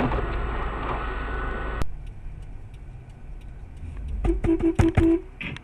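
Car engine and road noise heard inside a moving car, cut off abruptly about two seconds in. After a quieter stretch, several sharp clicks and a quick run of about five short, even beeps at one pitch come near the end.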